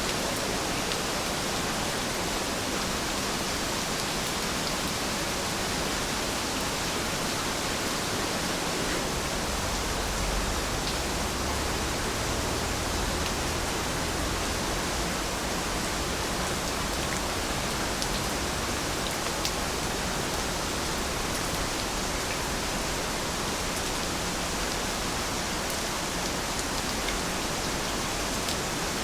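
Heavy rain falling steadily as an even hiss, with faint scattered drop ticks.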